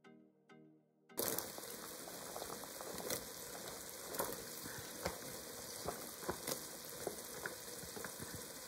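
Hot roux sizzling in a pot as chopped bell pepper, onion and celery are poured in, with scattered crackling pops. The sizzle starts about a second in, after a moment of near silence.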